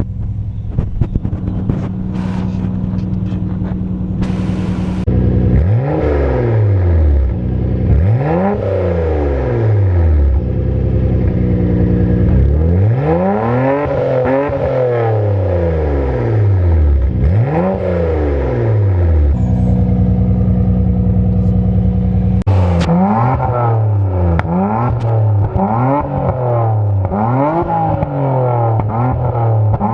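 Nissan Skyline R32 GT-R's twin-turbo RB26 straight-six idling, then revved up and back down several times, with a steady idle in between and a quick series of short revs in the last third.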